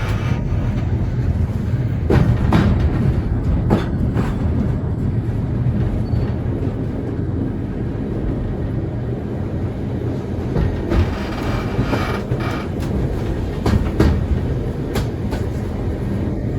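Vintage railway carriage of a heritage steam train running along the track: a steady low rumble of wheels on rail, with irregular clicks and knocks as the wheels pass over rail joints.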